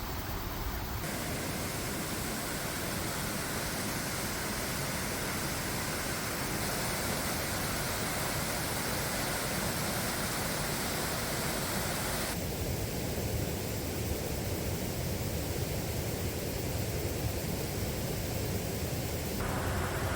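Steady rushing outdoor noise with no clear pitch. Its tone changes abruptly about a second in, about twelve seconds in and again near the end.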